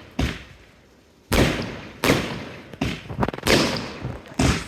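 Consumer (F2) fireworks going off: about six sharp bangs, roughly one a second, each trailing off in a short echo, with a brief run of small cracks about three seconds in.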